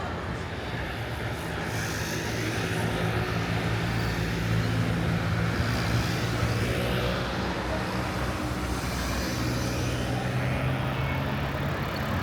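Road traffic on a city boulevard: a motor vehicle's engine runs close by as a steady low hum over the wash of passing traffic. It grows louder a couple of seconds in, then eases.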